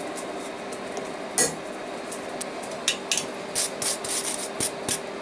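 A single hammer blow on a steel touch-mark stamp driven into hot steel about a second and a half in, followed from about three seconds on by quick, short metallic scrapes and clinks, a few a second.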